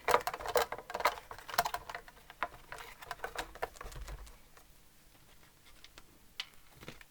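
Irregular small clicks, taps and scrabbling of guitar parts and wiring being handled and fitted back into place in the body, busiest in the first few seconds, then sparser and quieter.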